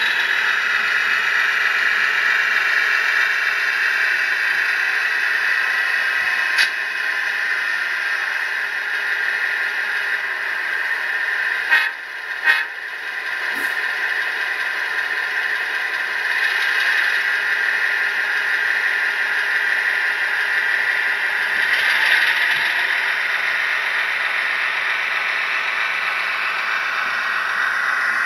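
Tsunami sound decoder playing a Fairbanks-Morse 38D opposed-piston diesel prime mover through the small speaker of an HO scale model locomotive, running steadily and thin in the bass. A few sharp clicks come near the middle.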